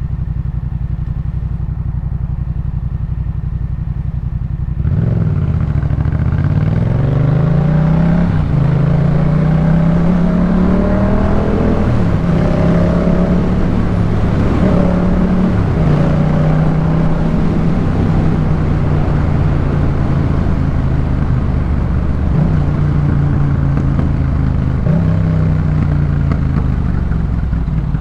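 2018 Yamaha MT-07's parallel-twin engine breathing through a Jeskap K4 full exhaust: a steady low idle, then about five seconds in it pulls away. The note rises and drops back several times as it goes up through the gears, then settles to a steadier run with a few small dips and eases off near the end.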